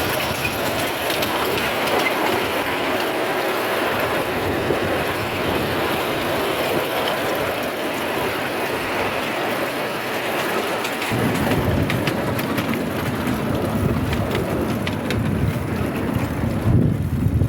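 Miniature railway train running along the track, its wheels clattering over the rails in a steady rush of noise. A lower rumble joins about two-thirds of the way through.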